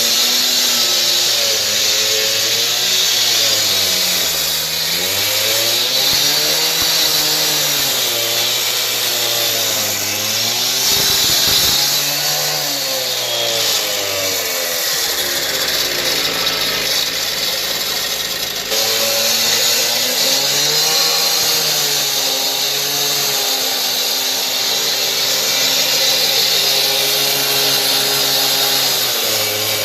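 Power saw cutting grooves into a thick cement floor, its motor running loud and steady, the pitch dipping and recovering again and again as the blade bites into the concrete.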